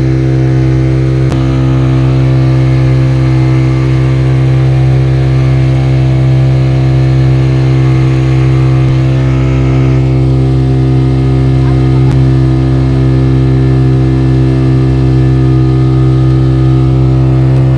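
Speedboat engine running loud and steady at one unchanging pitch, under way.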